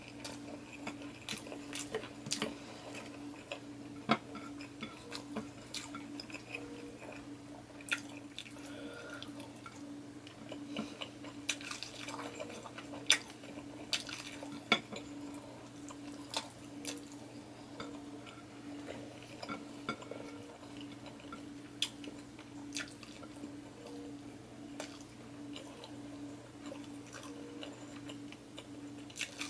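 Close-up eating sounds: chewing and wet mouth clicks as fried pork chop and rice are eaten by hand. Scattered sharp clicks come throughout, over a steady low hum.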